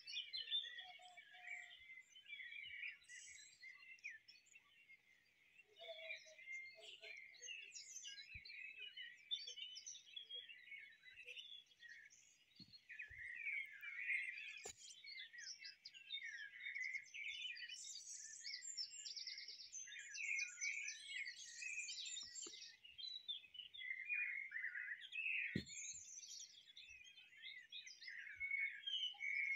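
Many small songbirds chirping and singing at once, a dense chorus of overlapping calls and trills.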